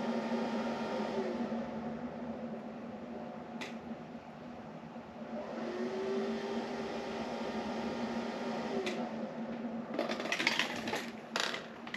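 A small electric motor running with a steady hum, with a few clicks and rattles near the end.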